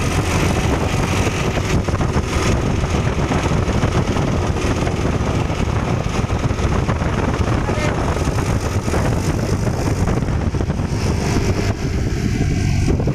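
Truck engine running with road and tyre noise, a steady mechanical din.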